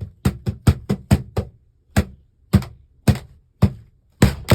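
A run of sharp knocks of hard plastic Lego pieces against a surface. About four a second at first, then slowing to about two a second.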